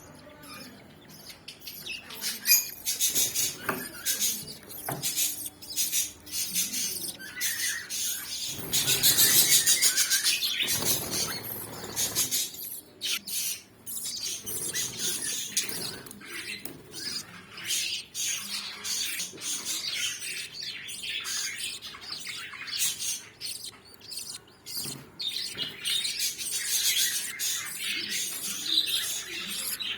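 A flock of budgerigars chirping and chattering continuously, with a louder, denser swell of calls about a third of the way in.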